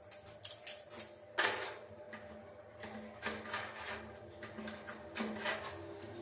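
Tile work with hand tools on ceramic zellige: a quick run of sharp clicks and taps in the first second and a half, then a few longer scraping strokes.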